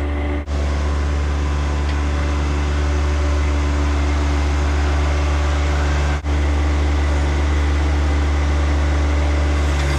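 John Deere backhoe tractor engine running at a steady speed, briefly cutting out twice.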